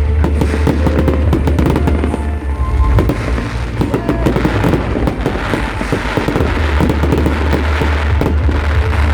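New Year's Eve fireworks going off in a dense, rapid run of crackles and pops, with music and its steady bass playing underneath.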